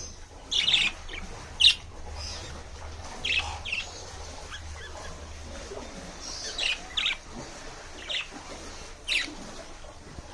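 Caged pet birds chirping: short, high chirps scattered through, about one every second or so.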